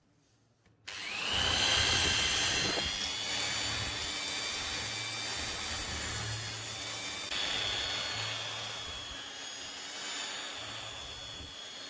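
A high-speed electric power tool spinning up about a second in, then running with a steady high-pitched whine over a coarse noisy layer.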